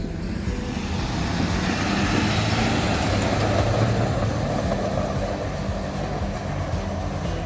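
A road vehicle passing by, its noise swelling to a peak about three to four seconds in and then fading.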